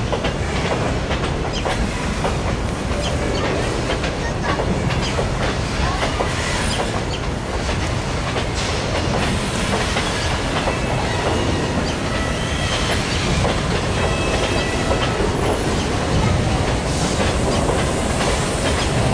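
Freight train of covered goods wagons rolling past, its wheels clattering steadily over the rail joints. A faint high wheel screech comes in now and then in the second half.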